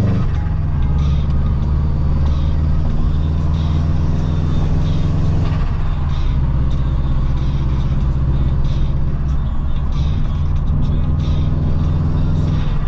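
Subaru Impreza WRX's turbocharged EJ20 boxer four running on the road, its note dropping at the start as it changes gear and shifting again around halfway and near the end. Background music with a steady beat plays along with it.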